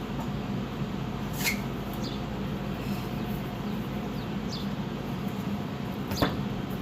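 Steady low workshop hum with two sharp clicks of hand work on the truck's rear suspension, one about a second and a half in and a louder one near the end.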